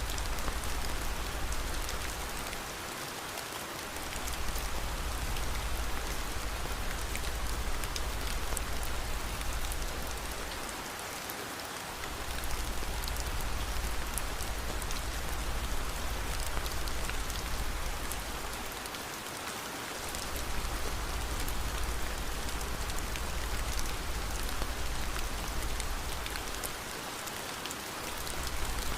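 Steady rain, a dense even hiss with fine patter of drops, over a low rumble that drops away briefly about every eight seconds.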